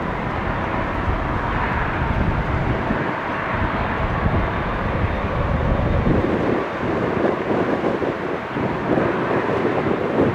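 Steady jet engine noise from a Boeing 777-200 airliner, with a faint whine, and wind buffeting the microphone.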